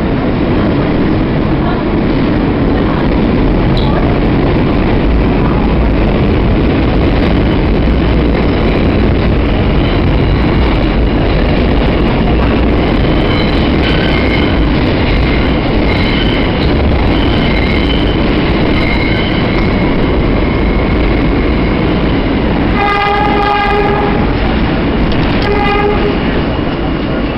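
New York City subway train running through a tunnel, heard from inside the car: a loud, steady rumble of wheels and motors, with intermittent high wheel squeal in the middle. Near the end a train horn sounds twice, a longer blast and then a short one.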